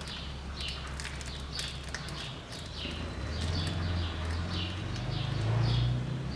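A small bird chirping repeatedly, short falling chirps about two a second, over a low steady hum that grows louder in the second half.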